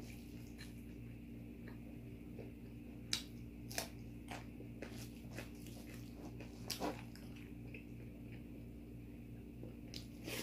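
A person eating close to the microphone: chewing and biting food, with a few sharp crunches about three, four and seven seconds in, over a steady low hum.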